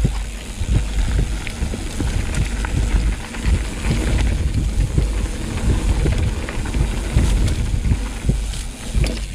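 Mountain bike riding down a dirt trail: heavy wind buffeting on the microphone and tyres rumbling over the ground, with frequent knocks and rattles from the bike.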